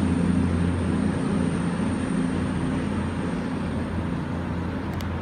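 Steady low drone of a train at the station, slowly fading away, with a faint click near the end.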